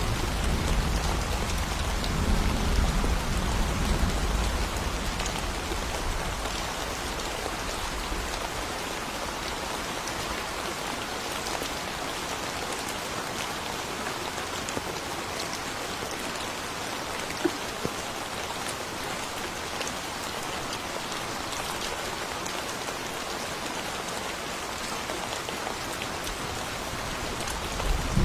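Steady rain falling, with scattered individual drops. A low rumble of thunder dies away over the first several seconds.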